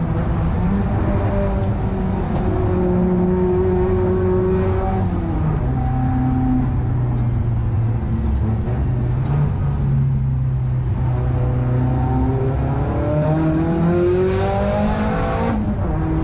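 Car engine heard from inside the cabin under hard driving. It holds steady revs, drops in pitch about five seconds in and runs lower while the car slows, then revs climb steadily and fall back sharply near the end, as at a gear change.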